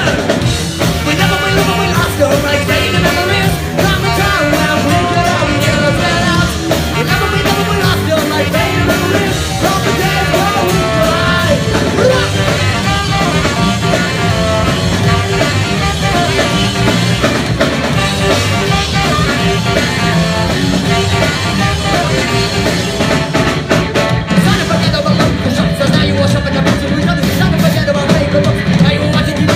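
Ska-punk band playing live, loud and continuous, with a singer over the full band.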